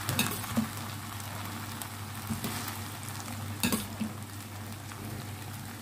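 Vegetables and boiled rice sizzling in a hot frying pan while being stirred, with two short knocks of a spatula, about a quarter second in and again at around three and a half seconds.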